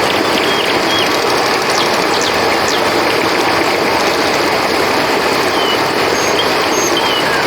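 Steady rush of flowing river water, with short high chirps of crickets and a few brief gliding chirps over it.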